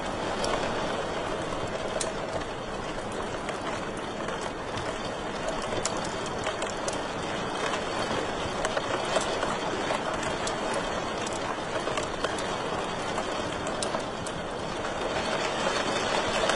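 Wood fire in a fireplace crackling, with a steady hiss of burning and irregular sharp pops and snaps.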